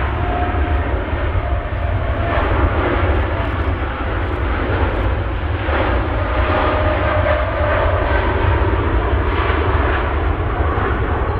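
Aircraft engines running steadily, a loud continuous noise with a heavy low rumble.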